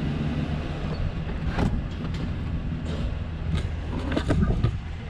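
A vehicle engine running steadily with a low hum, with several sharp knocks or clicks about a second and a half in and again near the end.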